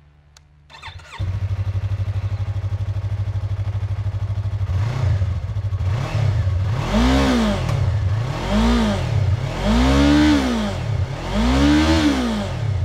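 Yamaha YZF-R3's 321 cc two-cylinder engine cranked on the starter and catching about a second in, then idling steadily through its stock exhaust. From about five seconds in the throttle is blipped repeatedly, with four bigger revs that rise and fall back to idle.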